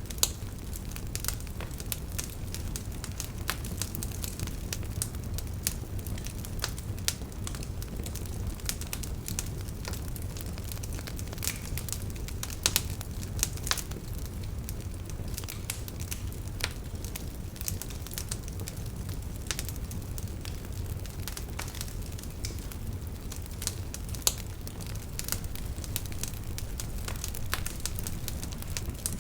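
Campfire burning with irregular crackles and pops from the burning wood, a few sharper pops standing out, over a steady low rush of the river.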